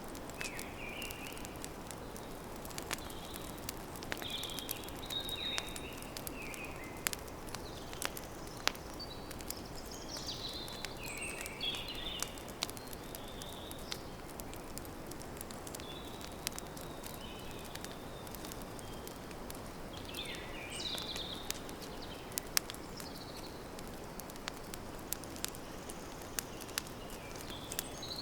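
Wood campfire crackling, with frequent sharp pops over a steady low hiss. Birds chirp in short bursts at intervals.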